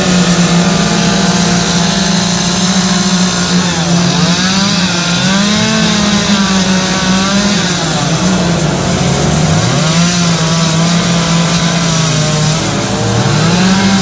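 Two-stroke carving chainsaws running hard, the engine pitch rising and falling as the saw is throttled through cuts. It drops back toward idle briefly a few times and then revs up again.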